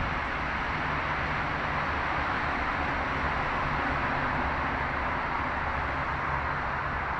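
Steady rain hiss, an even rushing noise with no change in level throughout.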